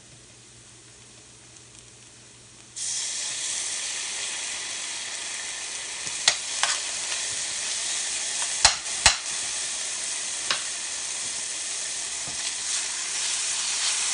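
Chopped onion and garlic sizzling in oil in a stainless steel skillet. The sizzle comes in suddenly about three seconds in and then holds steady. A few sharp clicks and knocks land against the pan midway, two of them loud.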